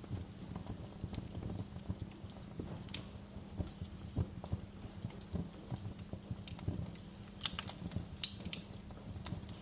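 Wood fire crackling in a fireplace: a steady low rumble full of small irregular pops, with sharper snaps about three seconds in and a cluster of them near the end.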